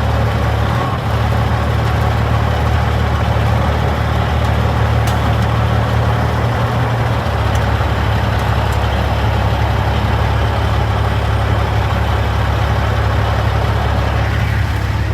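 Peterbilt 379's Caterpillar C15 ACERT diesel engine running at low idle while the truck reverses slowly into a dock, with a steady low hum whose note shifts slightly about halfway through.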